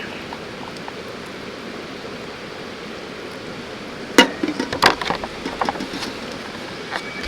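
Steady rushing of a mountain river. A few sharp knocks come after about four seconds.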